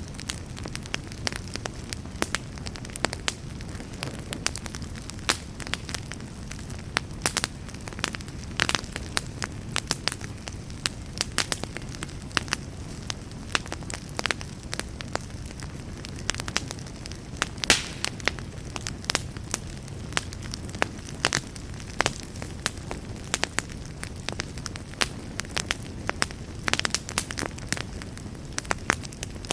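Campfire burning with a steady low rumble of flames and irregular crackles and pops of burning wood, a few pops louder than the rest.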